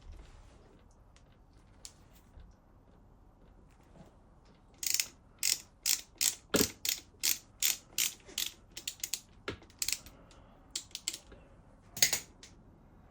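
Hand ratchet wrench clicking in a quick run of strokes, about two to three clicks a second, then a few slower clicks with the loudest near the end.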